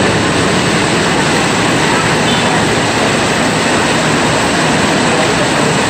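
Heavy rain falling steadily, a loud, even rushing noise with no breaks.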